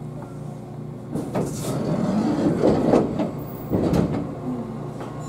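Shizutetsu 1000 series electric train running, with a steady low hum. From about a second in to four and a half seconds, a louder rough rattling rush with a few knocks swells and fades.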